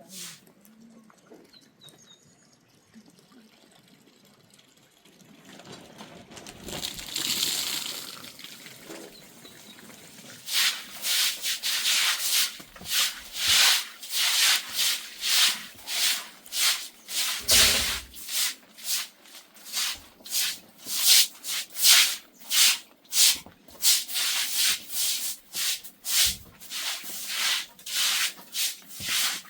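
Rhythmic rasping strokes, about two a second, like something being scraped or rubbed by hand, starting about ten seconds in after a swelling hiss.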